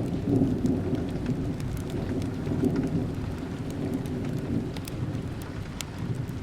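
Steady rain mixed with a crackling wood fire: scattered sharp pops and ticks over a continuous low rumble that eases slightly toward the end.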